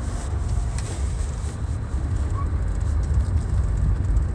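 Steady low rumble of car traffic on a snowy road.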